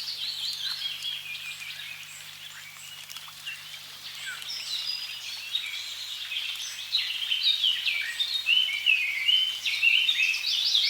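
A chorus of songbirds chirping and trilling in quick overlapping phrases over a faint steady hiss of running water, the birdsong growing louder and busier about seven seconds in.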